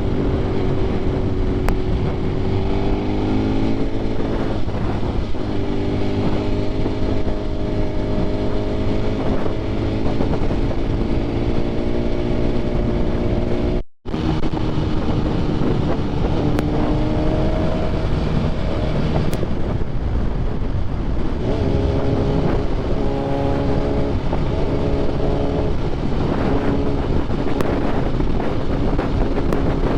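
BMW S1000RR sport bike's inline-four engine, fitted with an SC Projects exhaust, running under way at riding speed, its pitch slowly rising and falling with the throttle, under steady wind noise. The sound cuts out for a split second about halfway through.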